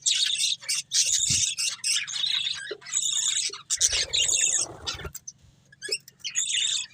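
Pet budgerigars chattering in quick runs of high chirps, with a brief rustling noise about four seconds in and a short break just after it before the chirping resumes.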